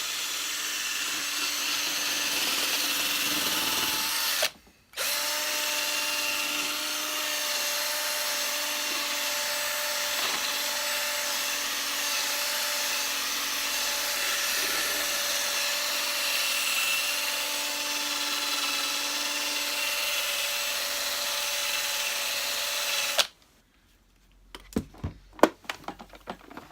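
Electric power polisher buffing polish off a vacuum cleaner's plastic body: the motor runs with a steady whine, cuts out briefly about four and a half seconds in, restarts, and stops near the end, followed by a few sharp clicks and knocks of handling.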